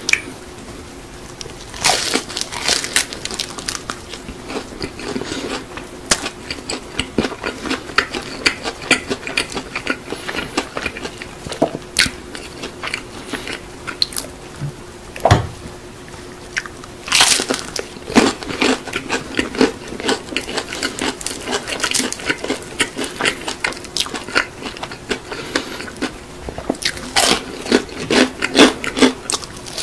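Close-up crunching and chewing of crispy, seasoning-powder-coated fried chicken (BHC Bburinkle): a run of crisp crackles as the crust is bitten and chewed, densest about two seconds in, again around seventeen seconds and near the end.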